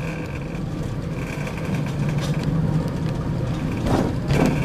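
A Snowdon Mountain Railway rack train running on its rack-and-pinion track, with a steady low drone and a high squeal that comes and goes. Two sharp knocks come near the end.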